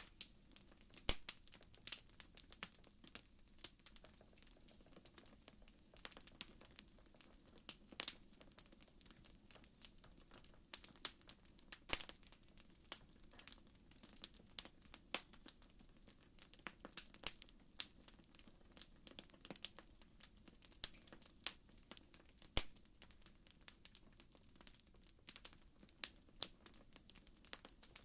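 Wood fire crackling: irregular sharp pops and snaps over a faint, steady low hiss.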